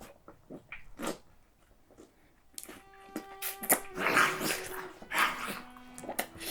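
Short, rough animal-like growls and snarls in separate bursts. Sustained bowed-string music notes come in partway through.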